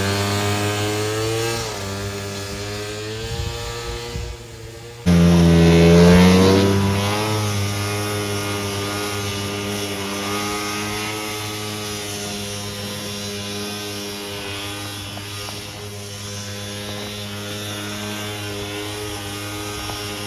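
Snowmobile with an Arctic Cat ZR200 250cc two-stroke engine running at high revs under throttle. The engine note drops away about four seconds in, comes back abruptly with the pitch rising, then holds a fairly steady pitch that eases slightly.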